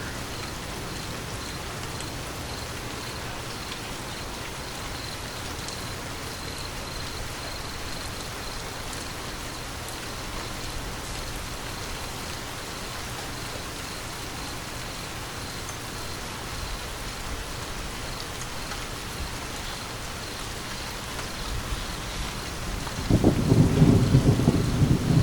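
Steady rain falling, joined near the end by a low rumble of thunder that swells to become the loudest sound.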